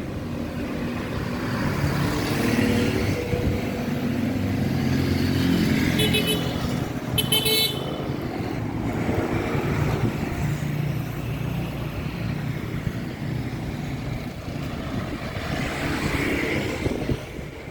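Street traffic: motor vehicle engines running steadily, with two short horn toots about six and seven seconds in.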